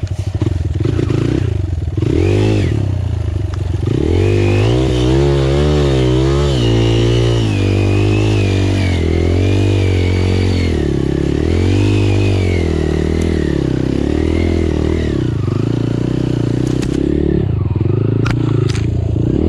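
Enduro motorcycle engine revving up and down over and over, its pitch rising and falling as the bike struggles for grip on slippery mud on a worn tyre. A couple of sharp knocks near the end.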